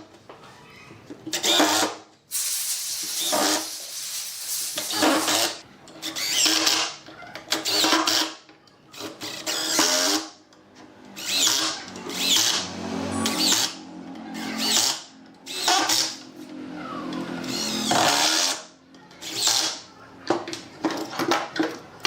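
A power tool worked in repeated short bursts, each lasting about a second, with brief pauses between them.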